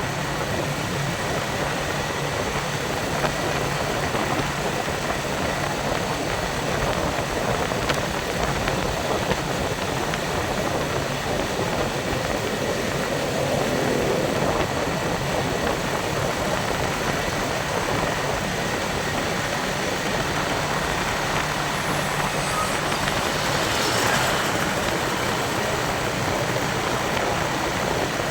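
Yamaha Vixion motorcycle's single-cylinder engine running steadily while riding, under an even wash of wind and road noise.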